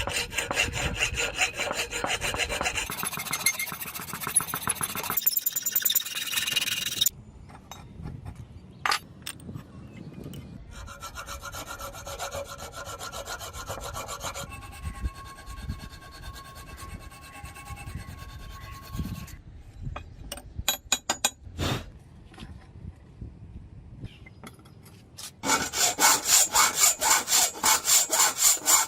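A hand tool worked back and forth in quick rhythmic strokes, a loud spell at the start and another near the end, about three strokes a second. Between them comes quieter, lighter work with a faint ringing and a few sharp clicks.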